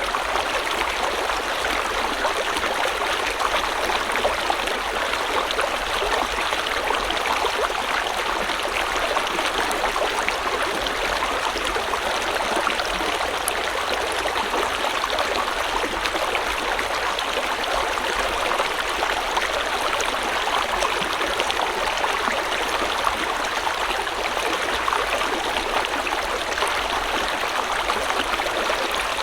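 River water flowing over rocks: a steady rush with small splashes and gurgles, unchanging throughout.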